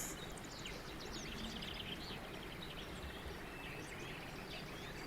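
Birdsong ambience: several small birds chirping and twittering over a faint steady hiss.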